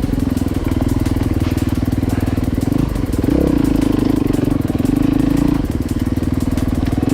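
Enduro dirt bike engine running steadily at low revs with a fast, even firing pulse, a little louder about halfway through.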